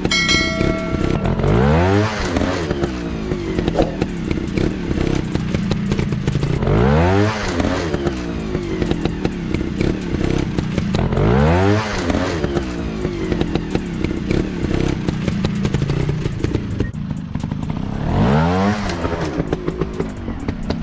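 Dirt bike engines running off-road and revving hard four times, each a quick climb in pitch that falls back again, with frequent clattering and knocking throughout.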